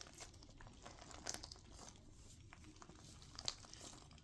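Near silence, with faint rustling and a few soft, short clicks of handling, the loudest about a second in and again near the end.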